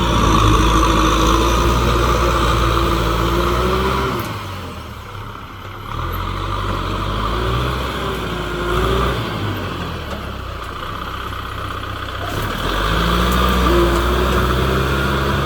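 Kubota M6040 tractor's four-cylinder diesel engine running, easing off about four seconds in and picking up again near the end.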